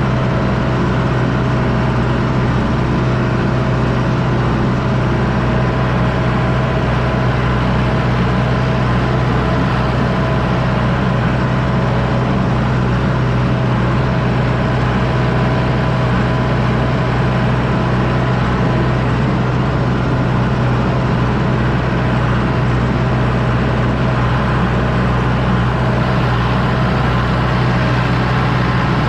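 John Deere 6110D tractor's diesel engine running steadily at a constant pitch while pulling a disc harrow through a field.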